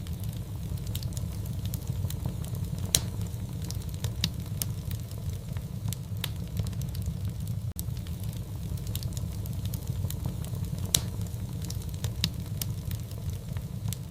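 Fireplace fire crackling, with scattered sharp pops over a steady low rumble. The loudest pops come about three seconds in and again near eleven seconds.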